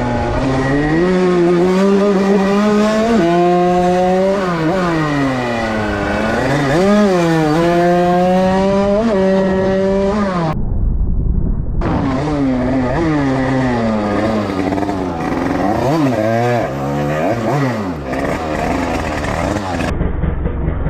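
Small-displacement two-stroke motorcycle engine of an 80cc Derbi being ridden hard, its pitch climbing and dropping again and again as it revs up and shifts or backs off.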